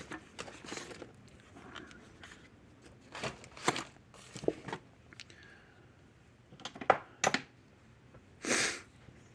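Tools and parts being handled and rummaged through on a workbench: scattered clicks and clinks, with a short rustling scrape near the end.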